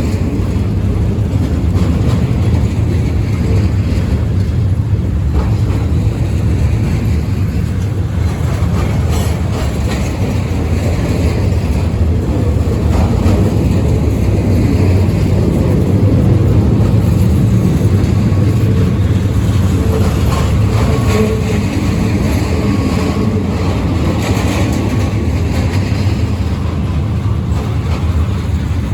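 Freight train rolling past, a steady heavy low rumble with a few faint knocks from the cars.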